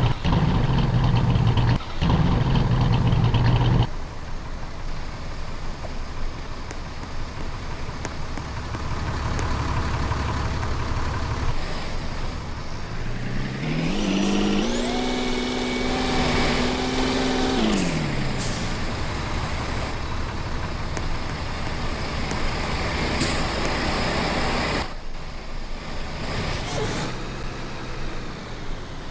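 Truck engine running under way, with road noise. A strong low engine drone in the first few seconds gives way to quieter running. About halfway through, an engine note rises in pitch, holds for a few seconds, then falls away.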